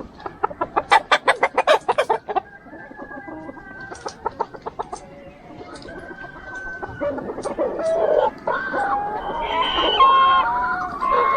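A flock of chickens: quick, loud runs of clucking in the first half, then longer drawn-out calls, several at once, including a rooster crowing, from about seven seconds in.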